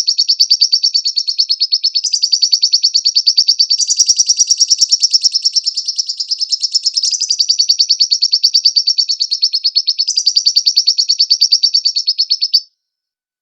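Lovebird singing one long, unbroken, rapid chattering trill of fast, evenly repeated high chirps. It shifts pitch slightly every few seconds and stops abruptly near the end.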